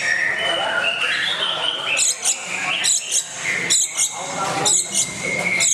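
Long-tailed shrike singing a varied, warbling stream of mimicked calls, broken by sharp high notes repeated about once a second.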